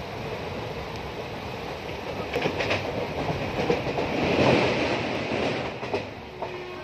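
Train running: a steady noise with a few sharp knocks about two and a half seconds in, swelling louder around four to five seconds in before easing off.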